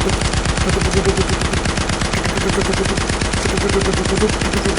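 Machine-gun firing sound, a rapid, unbroken stream of shots at an even rate, from a toy gun or an added sound effect.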